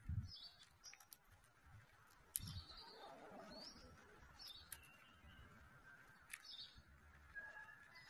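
Faint garden birdsong: short high chirps a second or two apart, with scattered sharp clicks.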